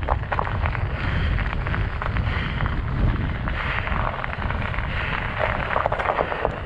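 Wind buffeting the microphone, with a constant scratchy crunching from studded fat-bike tires rolling over snow and ice.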